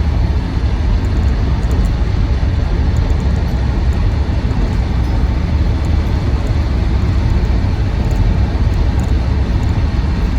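Land Rover Defender 90 TD5's five-cylinder turbodiesel and road noise heard from inside the cabin on the move: a steady low rumble that holds even as it trundles along.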